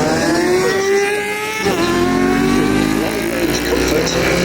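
Racing superbike engine accelerating hard, its pitch climbing, then dropping sharply at a gear change about one and a half seconds in and climbing again.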